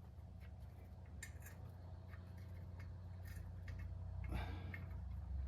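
Faint, scattered metal clicks and ticks as exhaust header bolts are threaded in by hand, over a steady low hum.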